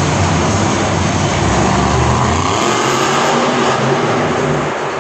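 Monster truck engine running loud, its pitch shifting about halfway through, over a dense steady wash of noise.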